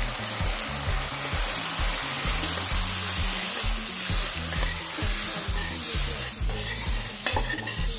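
Onion-tomato masala sizzling in a kadhai, with water poured into the hot pan partway through, over background music with a steady low beat.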